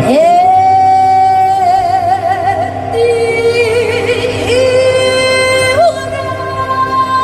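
Live fusion gugak (Korean traditional crossover) music: a lead line of long held notes that scoop up into pitch and waver with vibrato, over a steady band accompaniment. The melody steps down to a lower note partway through, then slides up to a higher one near the end.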